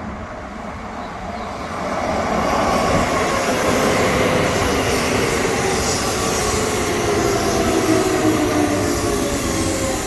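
Chiba New Town Railway 9100 series electric train pulling into a station. Wheel and running noise swells about two seconds in, then a whine of several tones falls in pitch as the train brakes and slows.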